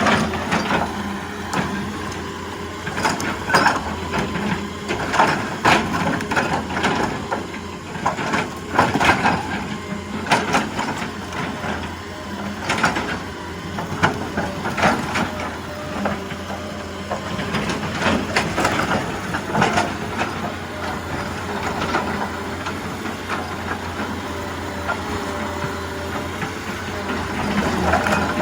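Excavator's diesel engine running steadily under load, with irregular crunching and scraping of rock every second or two as the machine works the rock face.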